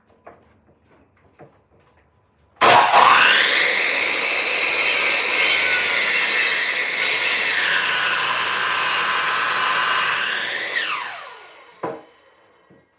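Electric chop saw starting up about two and a half seconds in, its motor spinning up with a rising whine. It runs loud and steady while the blade cuts through a wooden board, its pitch sagging briefly under the load. Near the end the trigger is released and the blade spins down with a falling whine, followed by a single knock.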